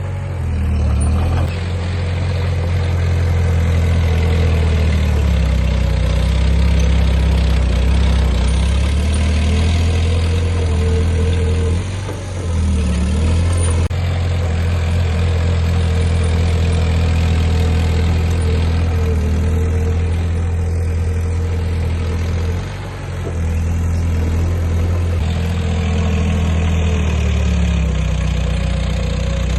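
Heavy diesel engine of earthmoving equipment running steadily at working speed. It dips briefly about 12 seconds in and again about 23 seconds in as the load or throttle changes.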